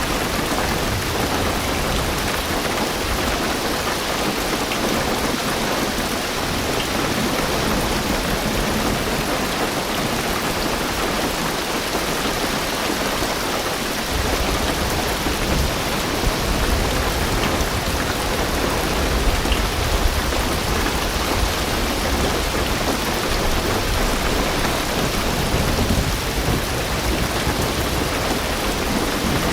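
Heavy rain drumming steadily on a car's roof and windows, an even hiss. A low rumble of distant thunder comes up about halfway through and carries on underneath.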